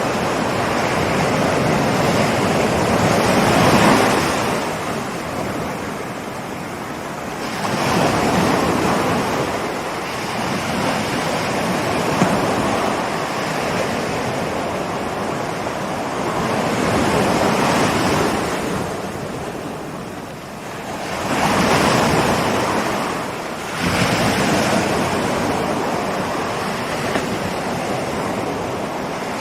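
Ocean waves rolling in and breaking on the shore, a continuous rush of surf that swells and ebbs every few seconds.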